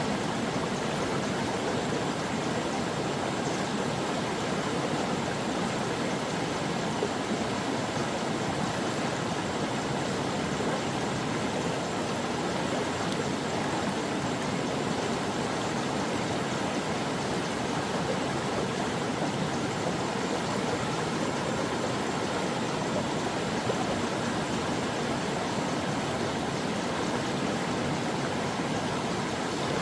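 A brook flowing, a steady, even rush of running water with no breaks.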